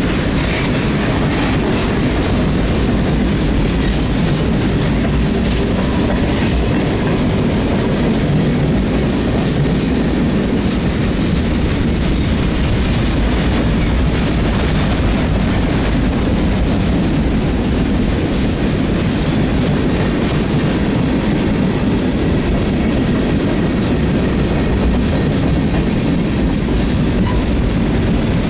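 CSX freight train's tank cars and covered hoppers rolling past close by, their steel wheels running steadily over the rails.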